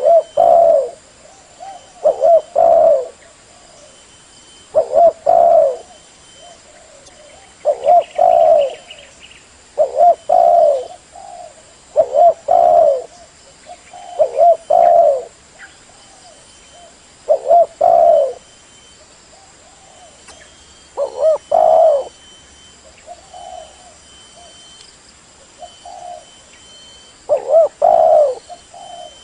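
Spotted dove (tekukur) cooing, phrase after phrase of a few low notes, repeating every two to three seconds.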